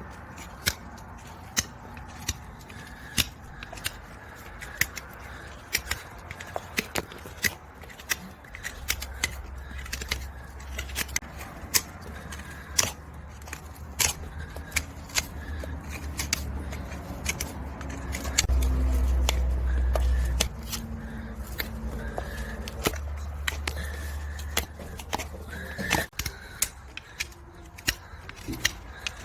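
Farrier's tools working on a horse's hoof: a long run of sharp, irregular clicks and snips. A low rumble sits under them for much of the middle.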